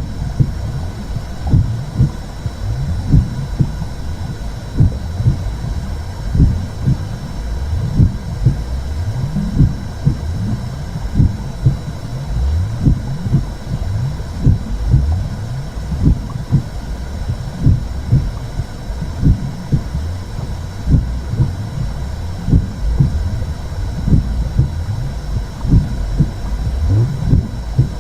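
Womb sound for soothing a baby: a muffled heartbeat of regular low thumps over a steady low rumble.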